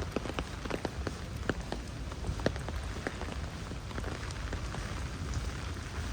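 Heavy rain falling, a steady hiss with many irregular sharp drop hits, more of them in the first half.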